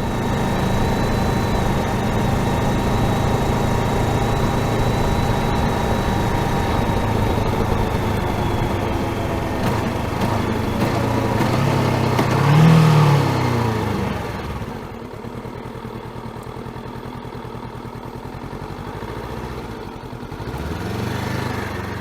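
Honda CBR500R's parallel-twin engine running steadily under way; about twelve seconds in the revs rise briefly and then fall away to a quieter, low, pulsing idle. Near the end the revs climb again.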